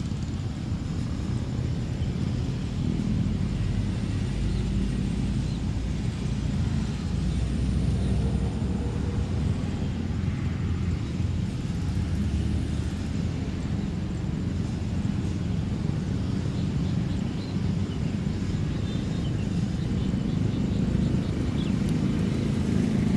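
Jet airliner engines heard as a steady, low rumble that grows slightly louder toward the end, typical of an airliner on or near the runway at takeoff power.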